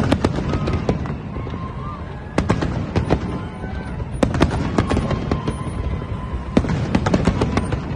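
Fireworks display: a rapid series of sharp bangs and cracks from bursting aerial shells, over a continuous low rumble.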